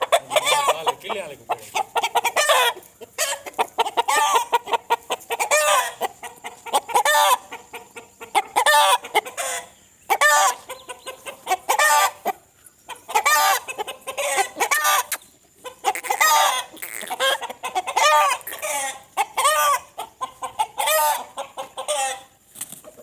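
Aseel chickens clucking in quick repeated calls, several birds sounding over one another in bursts with short pauses.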